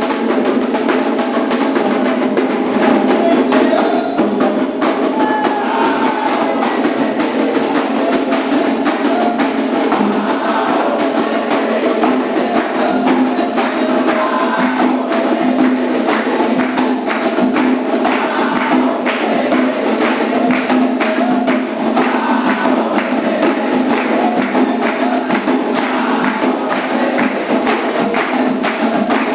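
Candomblé ritual drumming: atabaque hand drums and a struck percussion bell playing a continuous, dense rhythm.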